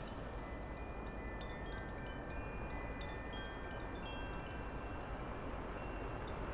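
Metal wind chimes ringing, many scattered strikes that each ring on, thickest in the first few seconds and thinning out toward the end, over a steady low outdoor rumble.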